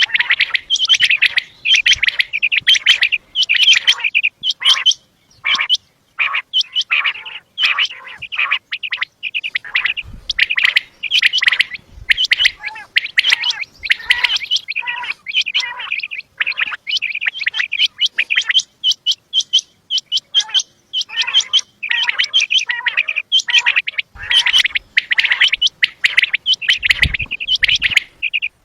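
Quail calling: rapid, high chirps repeated in quick clusters with short breaks between them.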